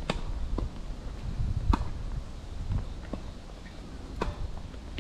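Tennis ball struck by rackets and bouncing on a hard court during a rally: sharp pocks about every one to two seconds, over a low rumble of wind on the microphone.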